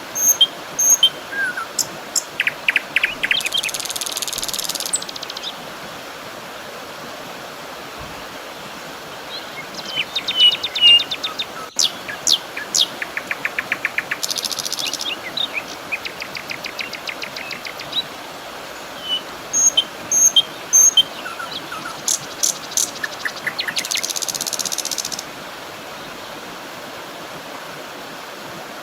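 Several small birds singing: short high chirps and quick trills, some repeated at intervals, over a steady background hiss.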